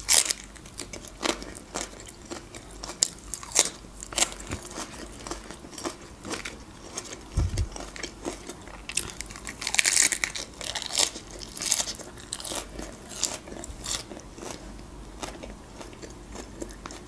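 Close-miked crunching and chewing of raw Napa cabbage leaves, a steady run of crisp crunches with a louder burst of crunching about ten seconds in.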